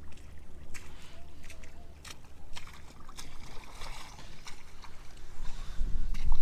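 Low wind rumble on the microphone with irregular splashes and trickling of shallow water on a tidal flat.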